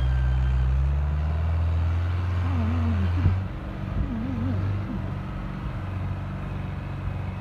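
Tractor engine running with a deep, steady note. About three and a half seconds in it drops off sharply with a knock, then keeps running more quietly.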